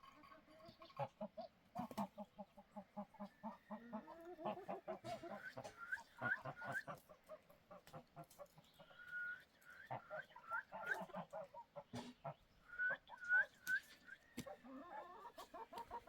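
Chickens clucking in quick runs of short calls, with groups of three or four short rising high chirps several times.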